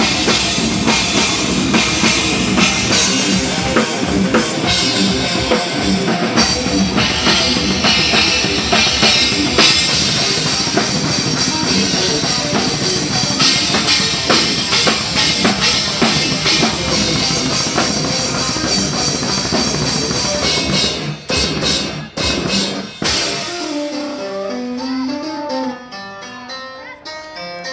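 Rock band playing with a full drum kit and guitar; about 21 seconds in the band hits a few sharp stops and drops out, and a keyboard with a harpsichord-like sound plays a melody of single notes near the end.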